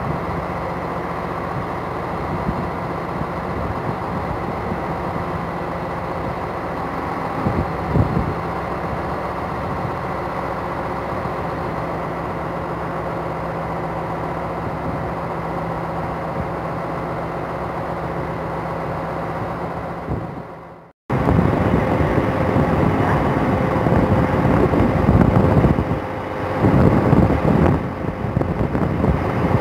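A stationary Régiolis multiple unit humming steadily at the platform. After a brief cut to silence about two-thirds of the way in, an X73500 diesel railcar approaches with its engines running, louder and rougher, rising and falling.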